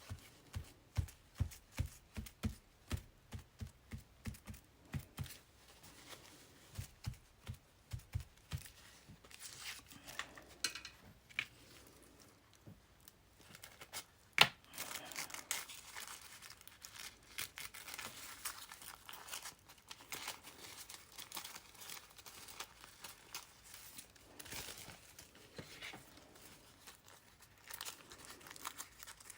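Paper torn and rustled by hand, ripping ragged edges around paper leaf shapes, with one sharp click about fourteen seconds in. The first eight seconds hold a run of soft low knocks, about two a second.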